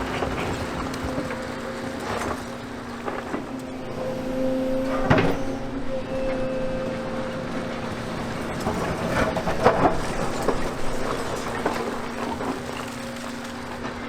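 Excavator diesel engine running steadily, with clanks and thuds of demolition rubble being handled; the loudest knocks come about five seconds in and near ten seconds.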